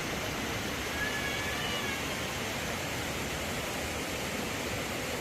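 Steady rushing noise with one faint high-pitched call, about a second long, beginning about a second in.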